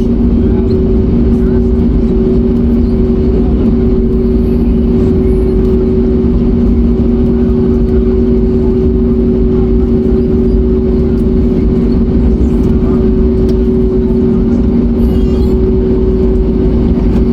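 Steady cabin drone of an Airbus A321neo with its engines running, heard from a window seat: a low rumble with two steady hums, level and unchanging.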